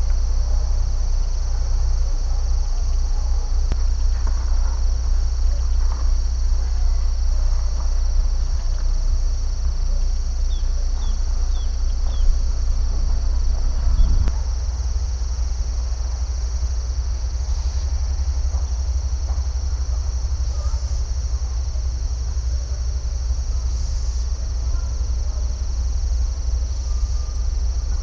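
Steady chorus of insects trilling continuously at a high pitch over a constant low rumble, with a few faint short chirps in the middle.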